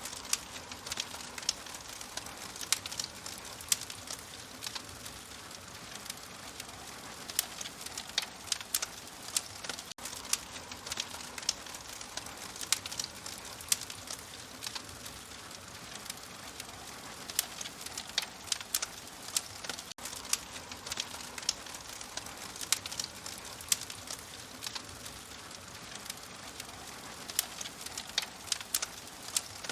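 An open fire crackling: irregular sharp pops and snaps over a steady soft hiss. The pattern of pops repeats about every ten seconds.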